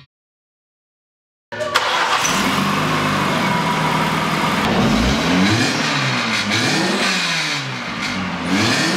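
Dodge Neon's four-cylinder engine running through a freshly fitted exhaust header and a cleaned-out catalytic converter, starting suddenly about a second and a half in and revved up and down several times in the second half.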